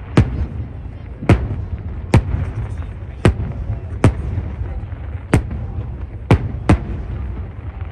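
Fireworks display: aerial shells bursting in sharp bangs, about eight of them at roughly one a second, two in quick succession near the end, over a steady low rumble.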